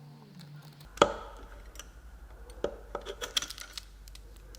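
Sharp metallic click about a second in, then several lighter clicks and taps: steel tools and the snap ring being worked on the clutch drum of a ZF 6HP26 automatic transmission while its spring pack is held down with a compressor.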